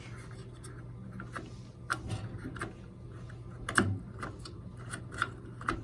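Scattered light clicks and taps from hands working a boiler's gas control valve knob and pilot button, over a low steady hum. No hiss of escaping gas stands out.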